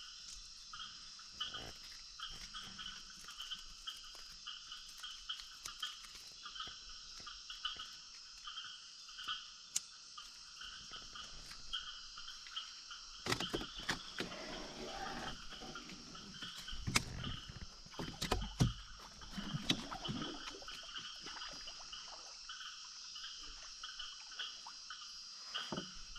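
A night chorus of frogs calling in rapid, repeated pulses over a steady hiss of insects. About halfway through come several knocks and rustling noises.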